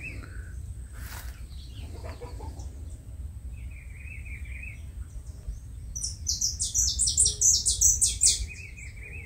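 Songbirds singing in a garden: a short wavering phrase about a third of the way in, then a louder run of quick, high, repeated chirps in the second half, with the wavering phrase again near the end.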